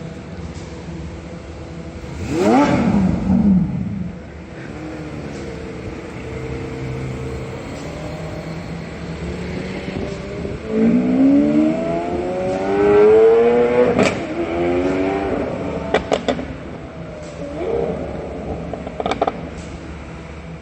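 Sports car engines and exhausts: one car passes with a falling engine note about two to four seconds in, then an engine revs up in rising steps a little past halfway, the loudest part. A few sharp cracks follow near the end.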